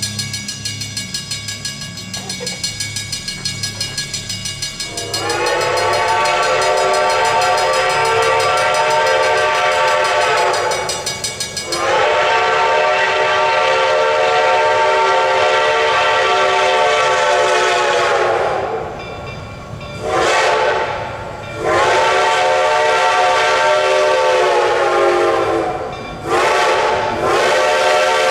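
Reading & Northern 4-8-4 No. 2102's Reading six-chime steam whistle blowing a sequence of long and short blasts, a loud multi-note chord that sags in pitch as each blast trails off. About five seconds of fast rhythmic pulsing come before the first blast.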